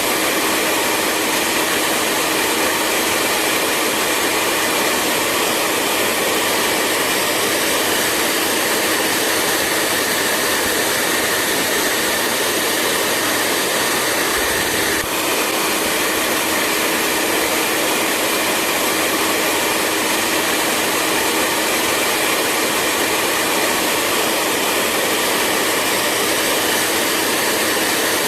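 Hair dryer running continuously: a steady rush of air with a low, even motor hum, and a brief dip in level about halfway through.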